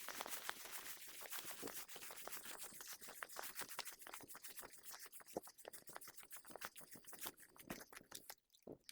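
Faint, irregular scratchy crackling and rustling, many small clicks a second, dying away near the end.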